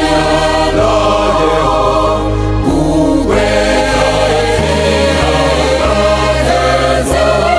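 Music with a choir singing over steady, sustained bass notes that change every second or so, in a gospel style.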